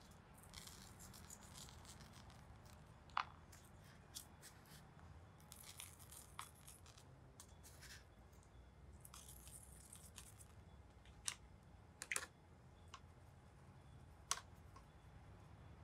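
Faint scratching and scattered small ticks as salt is pinched from a small cup and sprinkled onto a wet watercolor painting for texture, with a few sharper clicks.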